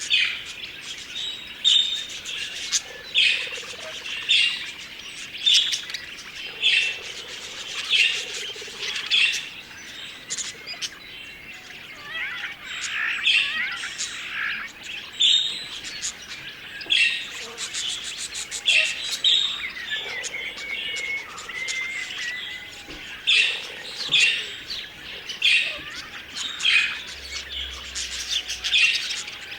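A flock of budgerigars chattering and warbling, with loud, sharp chirps repeating about once a second over the steady chatter.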